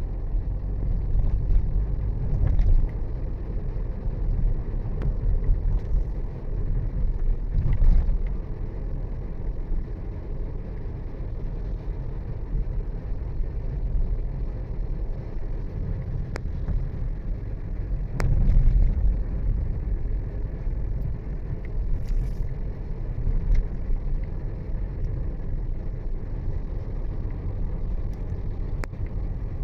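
Steady low road rumble of a moving vehicle, swelling louder a few times, with a few faint clicks.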